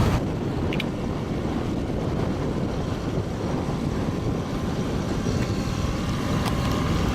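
Steady low rumbling noise aboard a boat under way.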